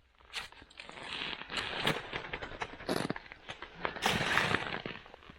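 Ice and hard-frozen snow crunching and crackling in deep frost: a dense run of sharp cracks with louder crunches about once a second.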